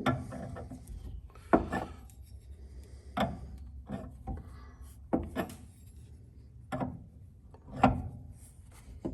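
A wrench turning a threaded fuel fitting into a fuel tank a little at a time, with about six short scraping, rasping strokes one to two seconds apart as the threads go in.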